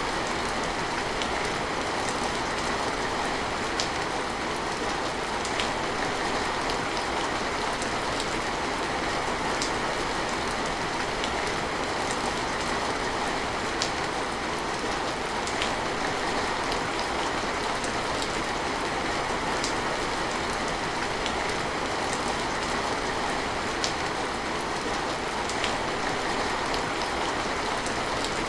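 Steady rain falling, an even hiss with scattered sharper drops tapping through it every second or so.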